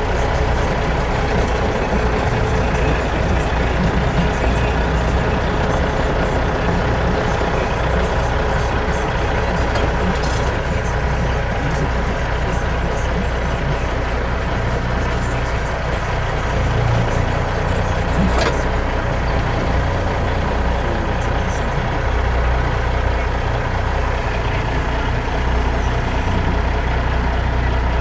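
A heavy vehicle's engine running steadily: an unbroken low drone that holds the same level throughout.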